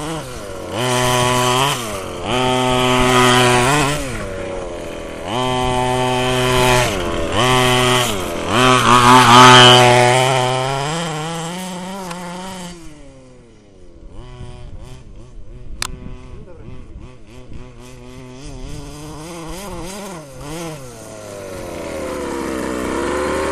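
Small two-stroke petrol engine of a large-scale FG Marder RC car revving repeatedly through a home-made exhaust pipe, rising and falling in a series of throttle blips, loudest about nine seconds in. It then drops to a quieter, lower running with a few small blips, and climbs again near the end before cutting off suddenly.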